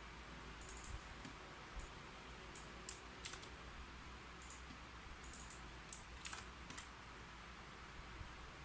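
Keyboard being typed on: short, light key clicks in irregular little bursts with pauses between them.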